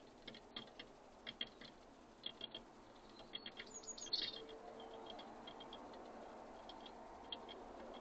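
Irregular light taps and clicks of birds pecking at a feeder, with a short high bird chirp about four seconds in. A faint low rushing sound comes up over the second half.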